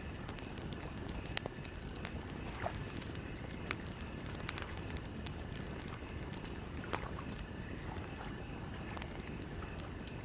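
Campfire crackling, with scattered sharp pops every second or so over a steady low rumble of wind.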